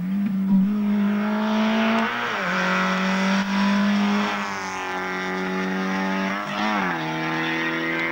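Volkswagen Golf Mk1 rally car's engine driven hard at high, steady revs as the car goes past, the pitch dipping briefly twice.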